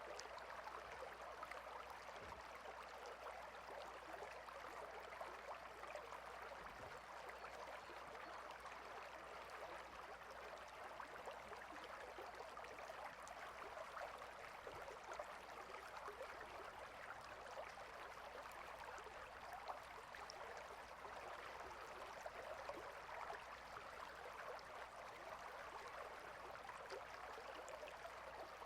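A stream of water flowing steadily, a faint, even rush of running water.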